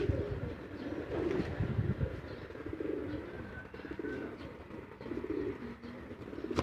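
Racing pigeons cooing, a run of repeated low coos.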